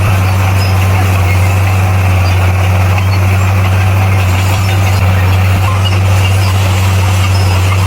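Bulldozer's diesel engine running steadily, a deep constant hum with no revving or pauses.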